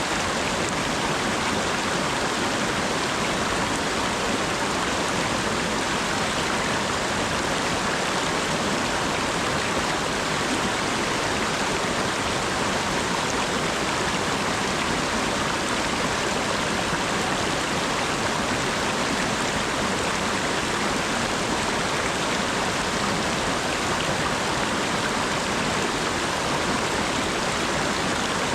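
Steady rain falling, an even hiss that does not change, with no single drops or other sounds standing out.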